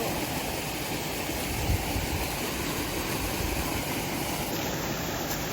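Steady rushing of falling and running water from a waterfall and stream, an even hiss with a low rumble underneath.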